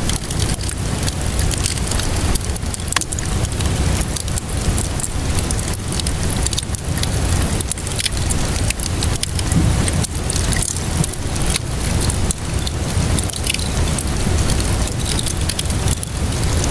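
Wood fire crackling, with many small irregular pops, over steady rainfall and a low rumble.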